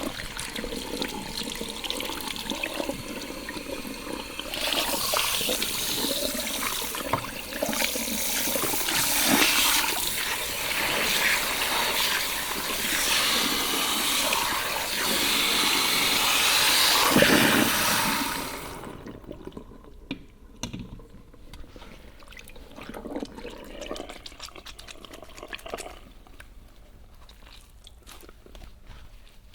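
Shower spray from a salon shampoo bowl running steadily over hair during a rinse, getting louder about four seconds in. The water cuts off about two-thirds of the way through, leaving faint crackling and rubbing sounds.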